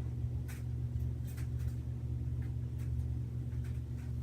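Scissors working at a disposable diaper: several short snips and crinkles at irregular intervals, over a steady low hum.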